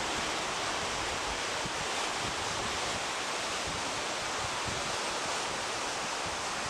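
Steady outdoor rushing noise, with wind buffeting the microphone in irregular low gusts.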